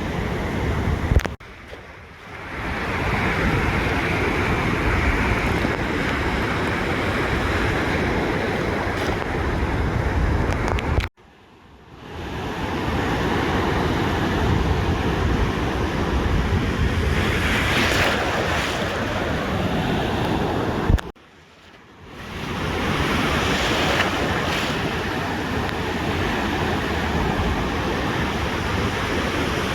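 Ocean surf washing on a beach, with wind rumbling on the microphone. The sound cuts out suddenly three times, about ten seconds apart, each time after a click, and swells back in after about a second.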